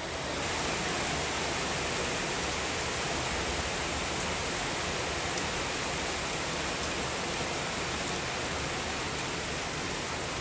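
Heavy monsoon rain pouring down as a steady, dense hiss, fading in right at the start.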